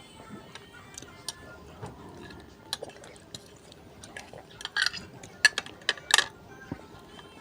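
Eating utensils clicking and scraping against a bowl of noodles: scattered light clinks, with a busier cluster about five to six seconds in.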